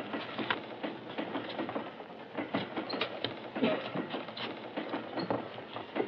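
Railway train running, its wheels giving irregular clicks and knocks over a steady noise, heard on a worn 1940s film soundtrack.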